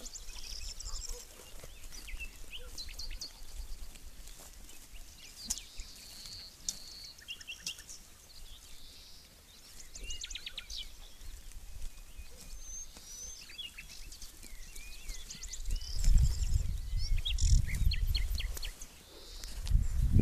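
Small birds chirping and calling, many short high notes and quick trills. A low rumble comes in near the end and is louder than the birds.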